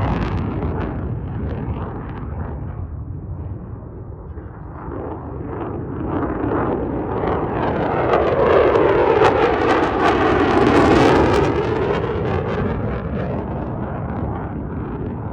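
Lockheed Martin F-35C Lightning II fighter jets taking off, their single F135 turbofan engines roaring. The first jet's noise fades over the first few seconds, then the second jet's roar swells to a loud, ragged peak about eight to eleven seconds in and fades away.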